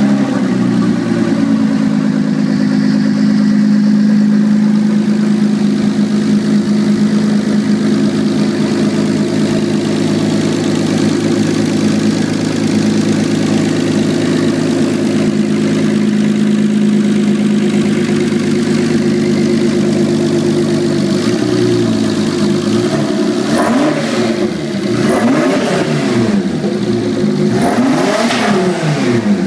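Single-turbo car engine running with no exhaust fitted, just after starting: a loud, steady idle that settles to a lower idle about two-thirds through, then three short throttle blips near the end.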